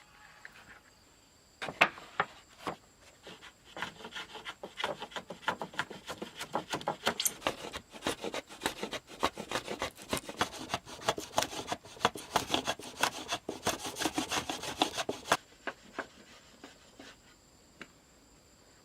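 Hand tool working wood in quick, rhythmic back-and-forth strokes, like hand-sawing or rasping. It starts about two seconds in and stops abruptly near the end.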